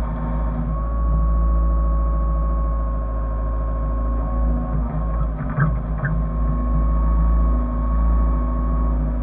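A Hyundai excavator's diesel engine runs steadily under load with a steady high whine over it. Two brief clicks come about five and a half to six seconds in.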